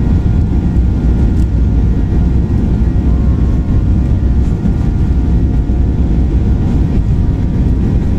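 Airliner engine and airflow noise heard inside the passenger cabin: a loud, steady low rumble with a faint constant hum above it, after takeoff.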